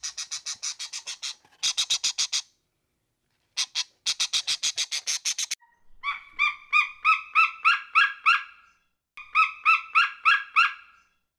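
Bird calls: two fast chattering trains of short, high, clicky notes, then two runs of clearer repeated notes at about four a second.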